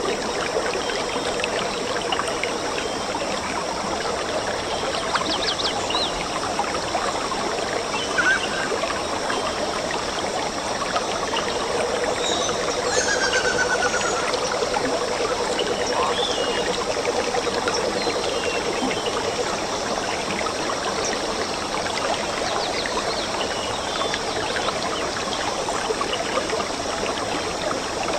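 A forest stream running steadily, with a few short, high chirps now and then.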